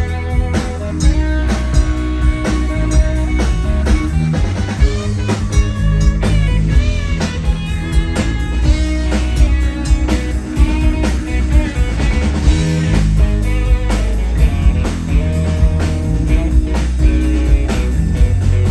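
Live rock band playing an instrumental passage: electric guitar lead with bending notes over bass and a drum kit keeping a steady beat.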